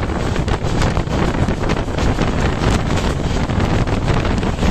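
Wind buffeting the microphone over the running noise of a moving passenger train, recorded with the phone held out of the coach window: a loud, steady rush with gusty swells.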